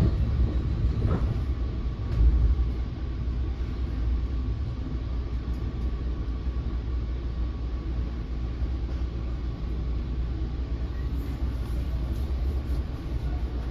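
Inside an NJ Transit Multilevel coach running at speed: the steady low rumble of the car on the rails, with one louder bump about two seconds in.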